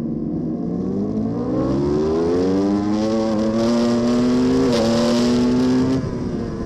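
Racing superbike engine at full throttle, heard from the onboard camera, its pitch climbing steadily with brief dips at gear changes about three and a half and five seconds in; near the end the throttle shuts and the pitch and level drop suddenly.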